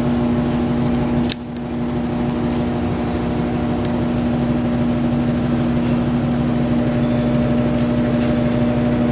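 Steady machine hum with a constant low tone, briefly dipping after a click about a second in.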